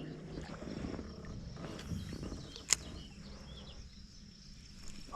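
Faint outdoor pond ambience: a steady high insect buzz over a low rumble, with one sharp click about halfway through.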